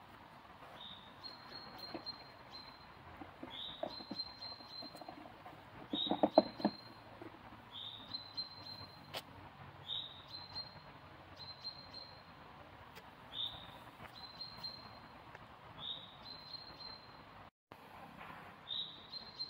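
A small bird calling over and over, a short high call about every two seconds, each a quick rising note that runs into a held one. About six seconds in comes a quick cluster of knocks, the loudest sound.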